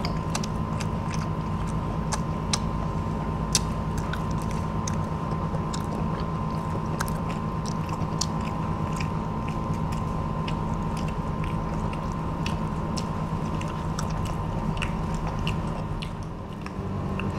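Children biting and chewing crispy panko-fried shrimp, many short sharp crunches scattered throughout, over a steady background hum.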